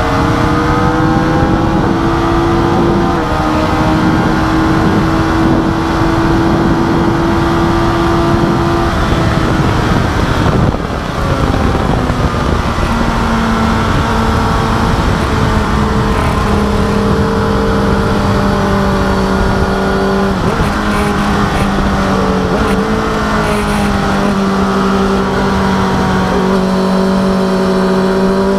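Suzuki GSX-R1000 inline-four engine heard onboard at speed, with heavy wind rush. It holds high revs, then the throttle shuts about ten seconds in with a brief dip, and it pulls again at lower revs that rise and step down through the corners.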